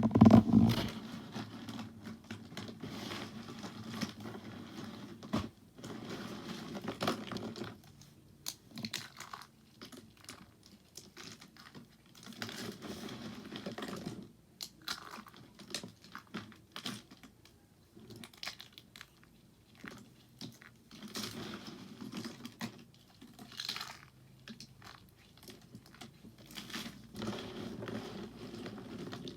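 Bar soap crunching and crackling as it is worked up close: dense crisp crackles and sharp clicks in irregular bursts, with short quieter gaps between them and the loudest crunch right at the start.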